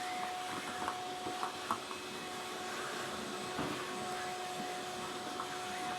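Shop vac running steadily, vacuuming debris off a subfloor, with a steady motor whine and scattered light clicks.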